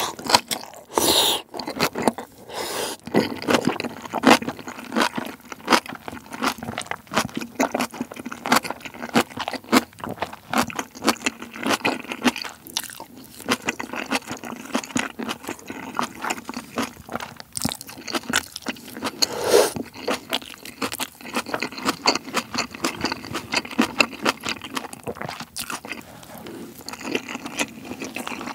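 Close-miked eating sounds: a person chewing mouthfuls of spicy ramen and rice mixed with tuna, in a dense run of wet mouth clicks, with a metal spoon scraping against the bowl and the pot.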